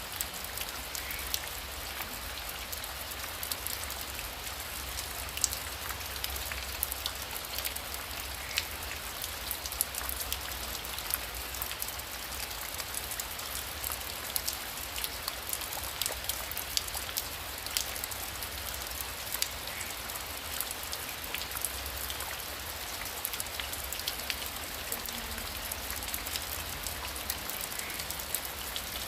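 Heavy rain falling steadily: a constant hiss scattered with many sharp individual drop hits, over a low steady rumble.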